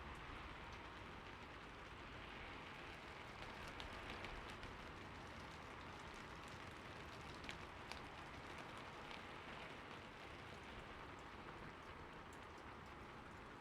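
Heavy rain falling steadily, a dense even hiss with scattered individual drop hits, a couple of sharper ones about halfway through.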